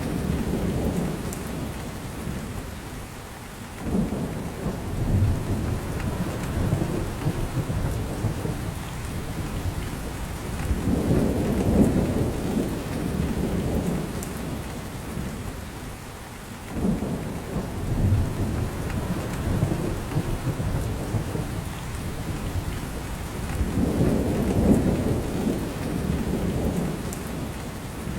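Rain falling steadily in a spruce forest, with drops pattering off the branches. Under it runs a low rumble that swells and fades every six or seven seconds.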